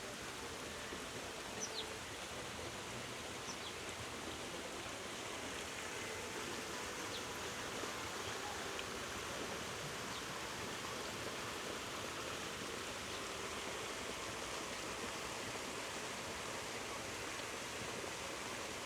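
Steady rush of water falling over a park's artificial waterfall, with a few faint short high chirps in the first half.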